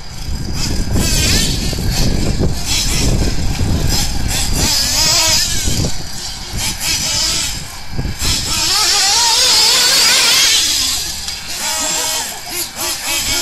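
Twin nitro engines of a 1/8-scale Kyosho ST-RR truggy running on the throttle, a high-pitched whine rising and falling repeatedly as the revs go up and down, loudest about nine to eleven seconds in.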